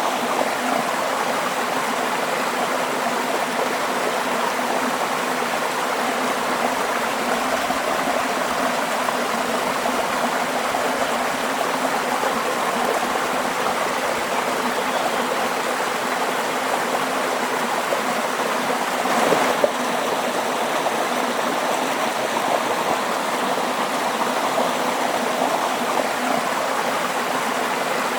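Waterfall: a steady rush of falling, splashing water, with one brief louder splash about two-thirds of the way through.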